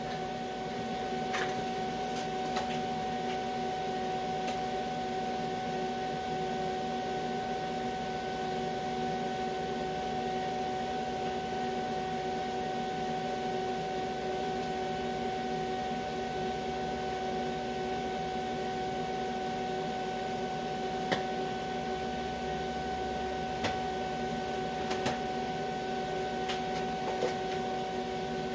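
Steady electrical hum of a TIG welding machine with fixed tones over a soft noise, broken only by a few faint clicks.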